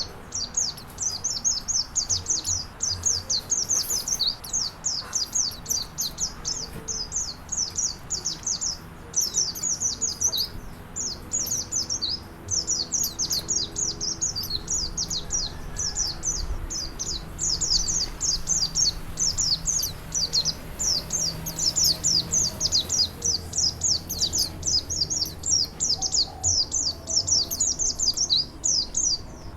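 A songbird singing a rapid, chattering string of high, sharp notes, several a second, with only short breaks, over a faint steady background hiss.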